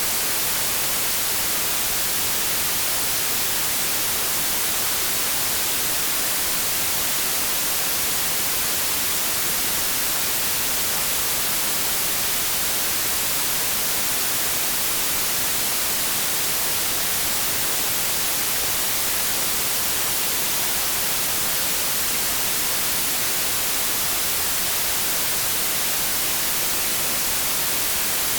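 Continuous white noise: an even, unchanging hiss.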